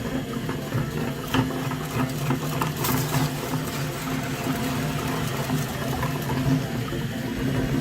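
A small motor running steadily with a mechanical whir and a few sharp clicks.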